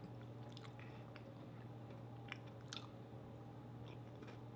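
Faint chewing of a mouthful of chocolate bar with a crunchy cookie layer, with small crisp crunches here and there, over a steady low hum.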